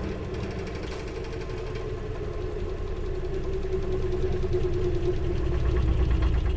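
A machine running steadily with a strong, even hum, growing louder toward the end.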